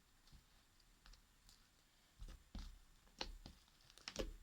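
Fluffy shaving-foam slime being kneaded and squished by hand, giving faint, irregular sticky clicks and pops.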